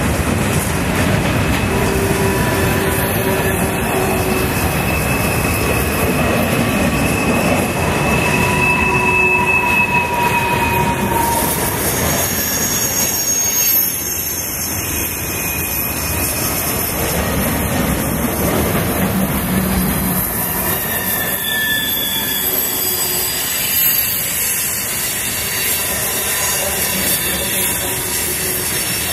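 Freight cars rolling past at close range: a steady rumble of steel wheels on rail, with wheels squealing in several thin, high tones that come and go.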